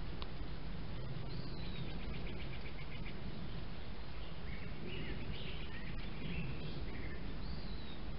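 Steady low hiss and rumble of background noise, with a few small birds singing faintly over it: a short down-slurred note about a second and a half in, then a fast buzzy trill, several chirps in the middle and one more slurred note near the end.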